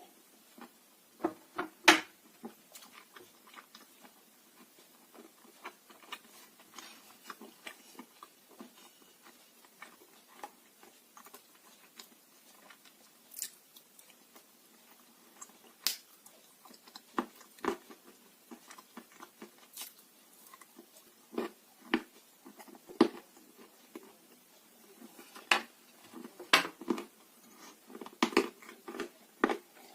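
Dry blue Uzbek clay being bitten and chewed close to the microphone. It makes irregular sharp crunches and crackles, each a second or a few seconds apart.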